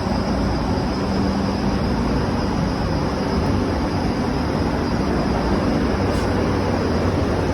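Trane DOAS (dedicated outdoor air system) air-handling unit running: a steady mechanical drone of moving air and fans, with a low hum and a faint high whine.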